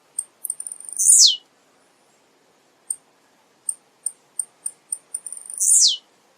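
Male blue-black grassquit (tiziu) singing: a run of short, sharp, high chips builds into a loud note that sweeps steeply down in pitch, twice, about four and a half seconds apart, with single chips between.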